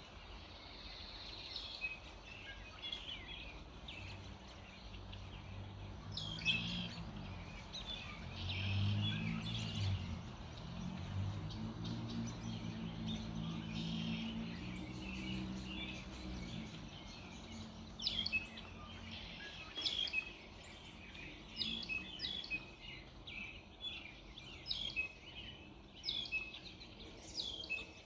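Several songbirds chirping and singing in quick, overlapping short notes. A low drone swells and fades away again in the middle.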